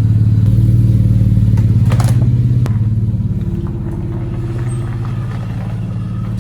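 Chevy Colorado ZR2's 3.6-litre V6 running through an MBRP aftermarket performance exhaust: a steady, deep drone that eases off a little in level about three seconds in.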